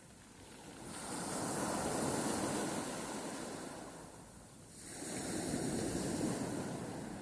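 Sea waves surging in and washing back, two waves in succession: the first swells up about a second in and ebbs away, the second rolls in about five seconds in.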